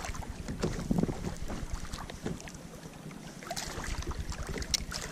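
Wind buffeting the microphone with a steady low rumble, with scattered small knocks.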